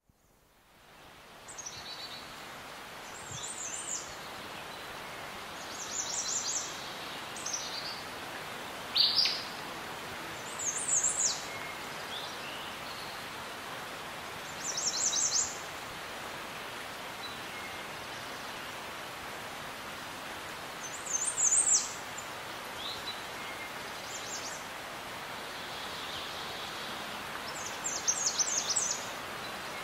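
Birds singing in short, high chirping phrases every few seconds over a steady background hiss. The sound fades in at the start.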